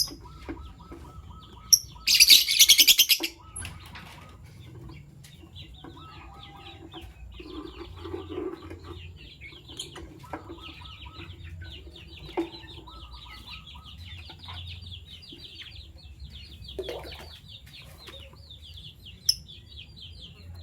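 Fischer's lovebirds chattering in long runs of fast, high twittering, broken by a few sharp single calls. About two seconds in there is a loud, harsh burst lasting about a second.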